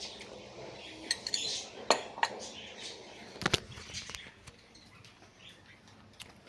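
Cutlery clinking against a dish, a handful of sharp clinks in the first few seconds, then quieter.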